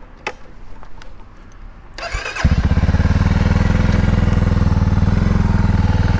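Small Herald motorcycle being started: a few light clicks, a brief crank about two seconds in, then the engine catches and settles into a steady idle with an even, fast beat.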